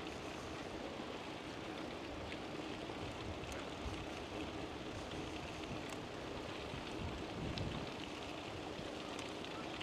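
Steady rushing noise of riding a bicycle: wind buffeting the camera's microphone, with a fluctuating low rumble.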